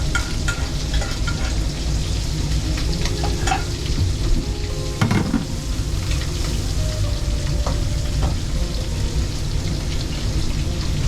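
Food frying and sizzling while it is stirred, a steady crackling hiss with a few short clicks, over a continuous low rumble.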